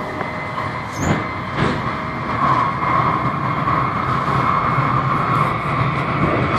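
Passenger train running, heard from inside the carriage as it crosses a steel truss bridge: a steady rumble with a couple of wheel knocks about a second in, and a steady hum that comes in a little after two seconds.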